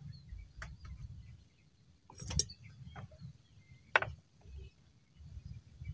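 A few sharp clicks and knocks of objects being handled, the loudest about two seconds in, over a low rumble with faint bird chirps.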